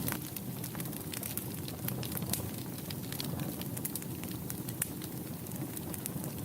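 Wood fire burning in a fireplace: a low steady rumble of flames under frequent sharp, irregular crackles and pops.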